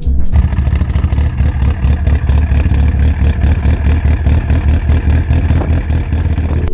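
Car engine and exhaust running: a loud, steady low rumble with a fast pulse.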